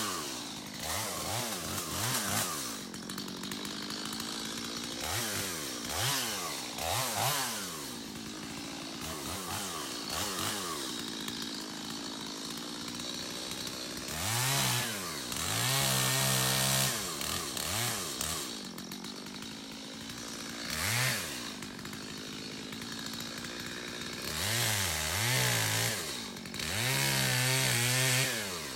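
Stihl MS250 two-stroke chainsaw revving up and down over and over, with short bursts of throttle between lower revs. It is held at high revs for a second or two at a time, about halfway through and twice near the end.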